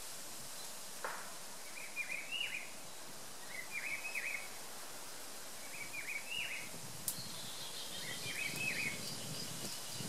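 A bird calling four times, short chirps about two seconds apart, over steady outdoor background noise.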